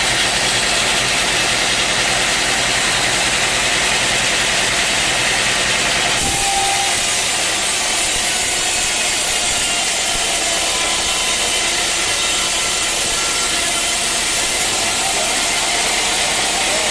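Engine-driven sawmill running steadily. The sound changes abruptly about six seconds in.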